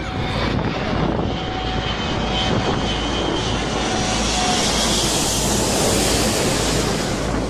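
Jet engines of a large aircraft running loudly, a rushing roar with a faint steady whine, the hiss swelling in the second half as the aircraft draws closer.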